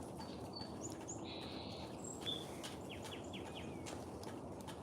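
Faint chirps and short high calls of wild birds at feeders, a scatter of brief notes with a quick run of downward-slurred chirps about three seconds in, over a steady background hiss.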